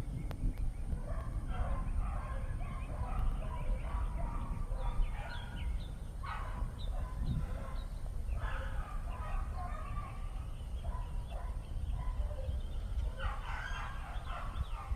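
Many short bird calls, chirping and clucking on and off, over a steady low rumble of wind on the microphone.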